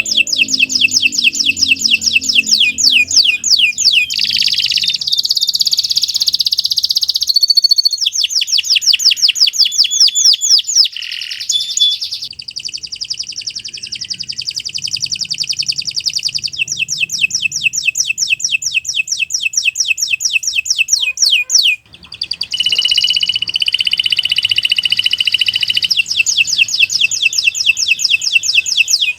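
Domestic canary singing a long, unbroken song of rapid trills, each phrase a fast run of repeated high notes. There is one brief pause about three-quarters of the way through.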